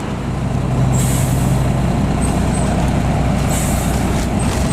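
UD Quester CQE 280 truck's diesel engine running steadily, with two short hisses of air from the truck's air brake system about a second and three and a half seconds in, as the repaired differential is being tested.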